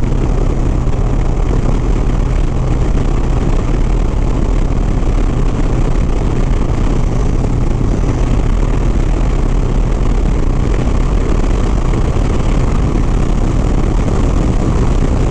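Harley-Davidson Sport Glide's V-twin engine running steadily at highway cruising speed, with wind and road noise over the rider's microphone.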